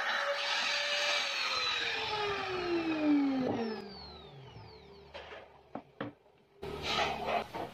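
Woodworking power tool's motor whining at a steady pitch, then switched off and spinning down, the whine falling in pitch over about three seconds. A few light knocks follow, and near the end more knocks and clatter.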